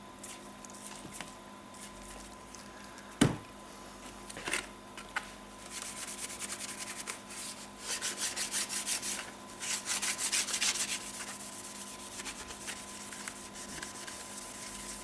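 Polishing Scotch-Brite pad scrubbing an oxidised plastic headlight housing, in quick back-and-forth strokes that grow steady and busier from about five seconds in. A single sharp knock about three seconds in.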